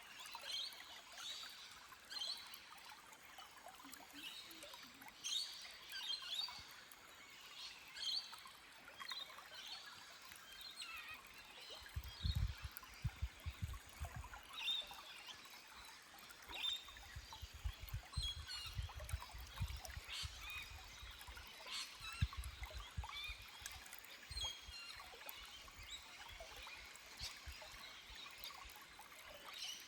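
Small forest stream trickling over rocks, with birds chirping in short calls throughout. A few spells of low rumbling come through in the middle.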